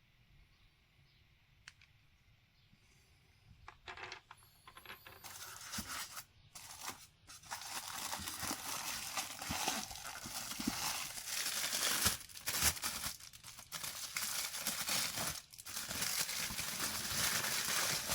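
Near silence for about four seconds, then packaging being handled: continuous crinkling and rustling with small clicks, getting louder.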